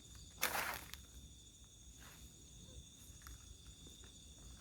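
Night insects, crickets, chirring steadily in the background, with one brief rustle about half a second in.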